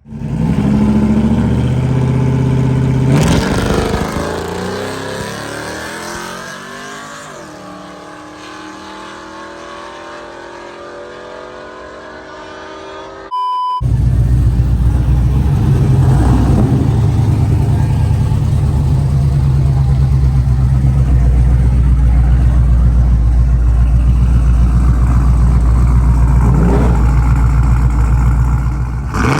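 Car engine launching hard down a drag strip: loud at first, then fading as the car pulls away, its pitch climbing as it accelerates. About 13 s in, after a brief beep, a loud, steady, low engine rumble takes over close by.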